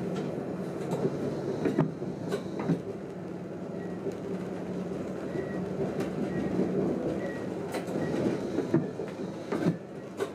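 Train in motion heard from the driver's cab: a steady running rumble and hum, with sharp clicks and knocks every second or two.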